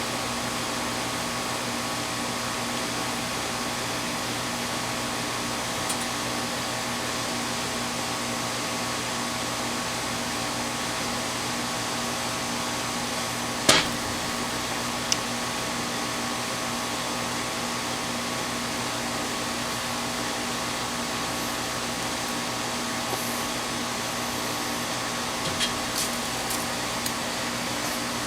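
A steady mechanical hum with several fixed tones. It is broken by one sharp click about fourteen seconds in and a few fainter clicks near the end.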